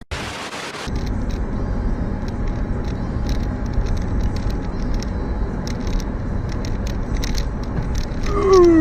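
Car driving: steady low road and engine noise with scattered light clicks and rattles, after a brief hiss at the start. Near the end a short tone falls in pitch.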